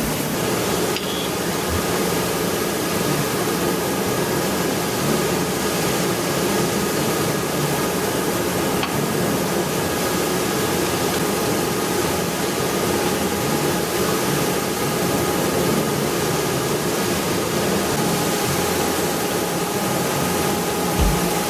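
Steady machine drone with a few faint constant tones running through it, holding level throughout.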